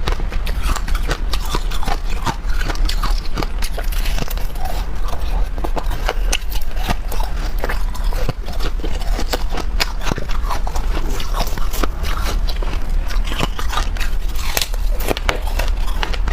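Close-miked biting and chewing of freezer frost: a dense, continuous run of crunching and crackling.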